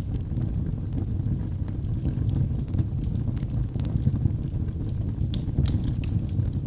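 Wood fire burning in a fireplace: a steady low rumble of flame with irregular sharp crackles and pops from the burning logs, several of them in quick succession about five to six seconds in.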